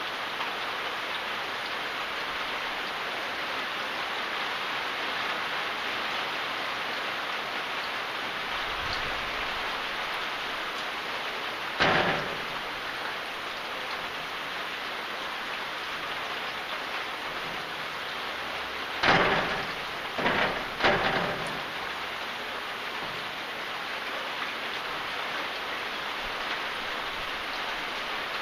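Steady rain, an even hiss of falling water. It is broken by short, loud bursts: one about twelve seconds in and three in quick succession near the two-thirds point.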